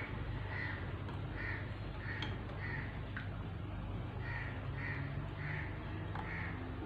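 A bird repeating short, harsh calls, a little under two a second, in runs with short gaps, over a steady low hum.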